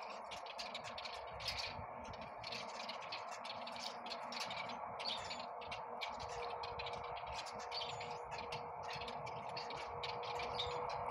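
A flock of small birds chirping and twittering in many short, high calls over a steady background hum, with a thin steady tone joining about six seconds in.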